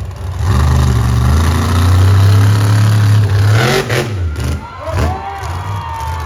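Monster truck engine revving hard and holding high for a few seconds, then dropping and blipping back up a couple of times.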